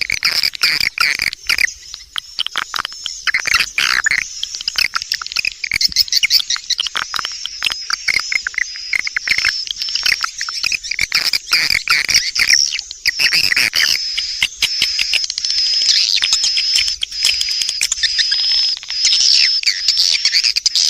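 Edible-nest swiftlet call sound, the lure recording played in swiftlet houses: dense, rapid, high twittering chirps and clicks, settling into a steadier high twitter about two-thirds of the way through.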